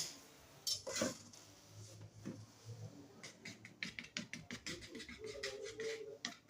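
Faint scattered clicks and scratching from hands working on a hair-clipper blade, the ticks coming thicker in the second half.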